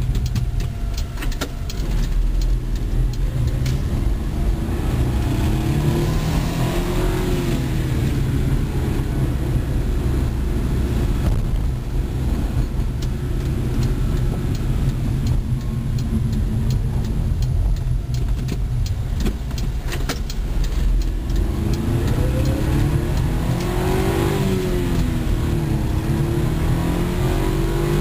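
1991 Suzuki Carry 4x4 mini truck driving, its small three-cylinder engine climbing and dropping in pitch as it accelerates and shifts gears, over a steady low road rumble. The engine pitch climbs about a fifth of the way in and again, rising and falling, near the end.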